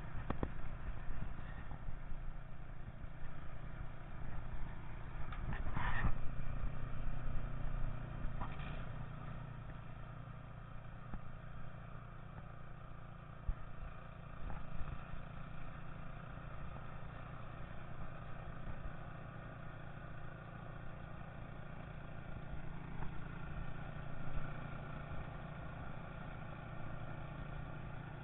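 An engine idling steadily, with a few short knocks and scrapes, the loudest about six seconds in.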